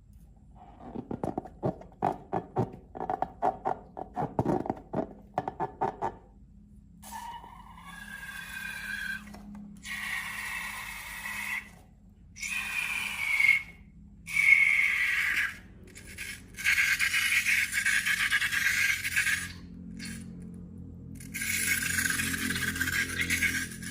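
Slime being handled: a run of quick crackly squishes, then a series of hissing, squealing scrapes, each a second or two long with short pauses between.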